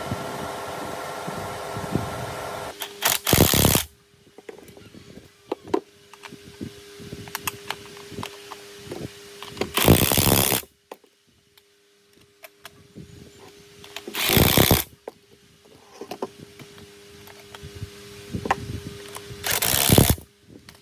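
Workshop machine noise: something runs steadily for about the first three seconds and then stops. After that come four loud, short rushing bursts, roughly every four to six seconds, with scattered clicks and knocks between them.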